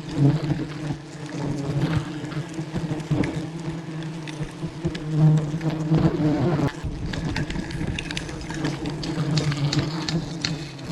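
Honey bees buzzing as a swarm around a wild hive: a steady, continuous drone, with scattered small clicks.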